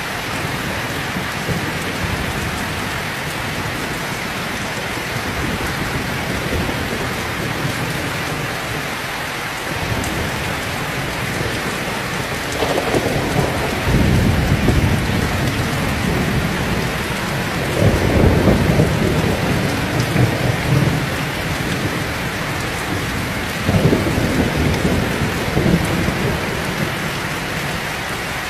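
Heavy rain pouring steadily, with rolls of thunder rumbling through it several times, the loudest about halfway through and again near the end.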